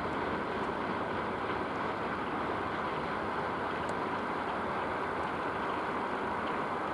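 Freight train rolling past on the rails: a steady, even running noise with a few faint ticks.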